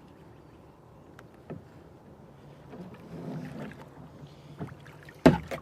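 Light knocks and shuffling of a person moving about in a kayak, with one sharp, loud knock near the end.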